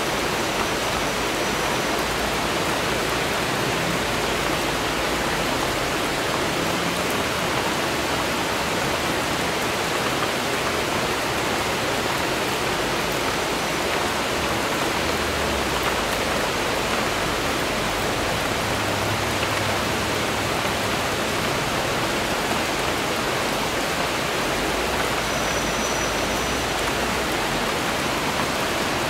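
Steady rain falling, an even unbroken hiss with no changes.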